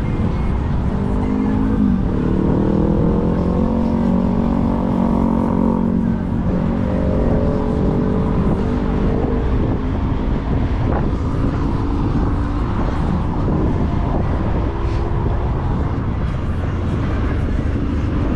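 Wind buffeting an action camera's microphone, with road rumble, while riding an electric scooter. A pitched motor hum bends upward about two seconds in, holds, and fades out near ten seconds.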